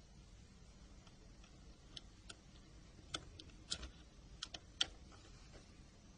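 A small tool clicking against the plastic and metal parts of a Nokia N-Gage phone as the loudspeaker is levered out of the housing. About nine short, sharp clicks come in an uneven run between about two and five seconds in, over a faint background hum.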